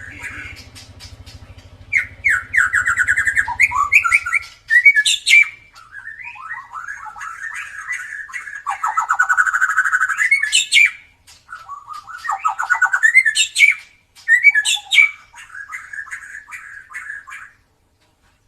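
White-rumped shama (murai batu) singing: a run of loud phrases of rapid trills and whistles with short pauses between them, stopping shortly before the end. A steady low hum lies under the first few seconds.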